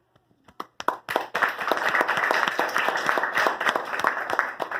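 Small audience applauding. A few scattered claps start it off, and about a second in it fills into dense clapping that carries on to the end.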